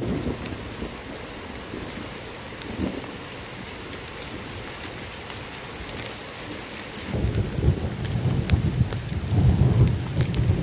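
Steady rain falling on the forest, with scattered sharp ticks of drops striking leaves. A strong low rumble comes in about seven seconds in and is loudest near the end.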